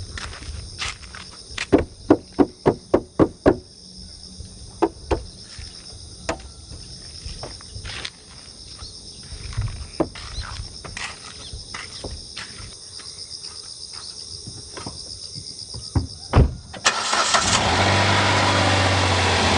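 A series of clicks and knocks, including a quick run of about seven taps a couple of seconds in, then the 2014 Kia Ray Turbo's three-cylinder turbo engine starts near the end and settles into a steady idle.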